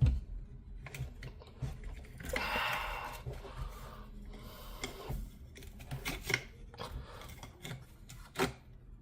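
Steel parts of an SVT-40 rifle clicking, knocking and scraping as it is field-stripped, with the spring-loaded parts being worked loose. A longer scrape runs a couple of seconds in, and a sharper knock comes near the end.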